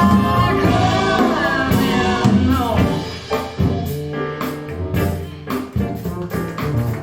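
Music played back through KEF LS50 loudspeakers in a room: sung vocals with guitar and drums, the held singing giving way about halfway through to plucked guitar over drum hits.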